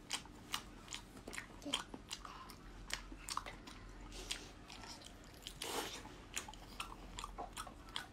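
Chewing and biting on octopus tentacles: a string of short, irregular mouth clicks and smacks.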